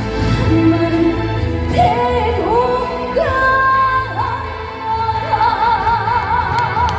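A woman singing a trot song live with a band, the melody moving through several phrases and then settling on one long held note with wide, even vibrato, the closing note of the song.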